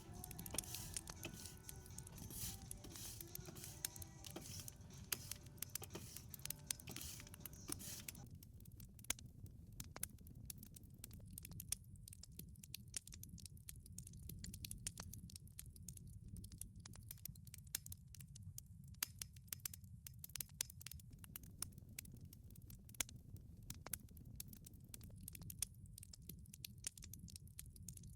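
Wood fire burning in a wood-fired pizza oven: irregular sharp crackles and pops over a steady low rumble of the flames. For about the first eight seconds a faint hiss with steady tones sits behind it, then drops away.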